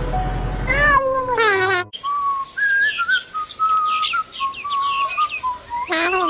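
Meow-like animal cries falling in pitch, one about a second in and another near the end, with a wavering whistle-like tone and short chirps between them. A steady motor hum cuts off about a second in.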